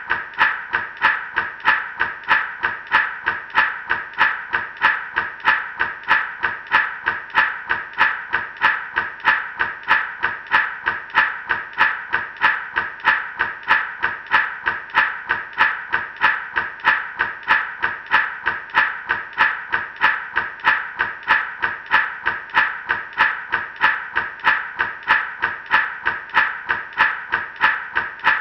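Gourd rattle (shaman maraca) shaken steadily, its seeds hitting the dried gourd shell in an even rhythm of shakes.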